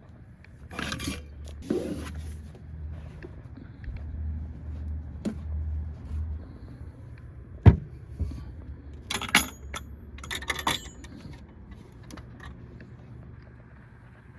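Keys jangling and small objects being handled and scraped, with one sharp knock about halfway through and a burst of jingling shortly after.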